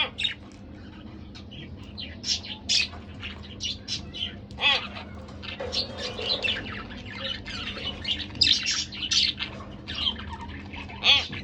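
Pet budgerigars chirping and chattering in quick, irregular high-pitched bursts, with a few louder squawks.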